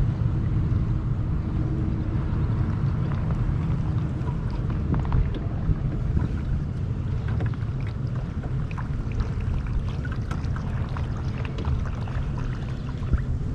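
Steady low wind rumble on the microphone, with small water splashes and drips against the hull of a moving kayak.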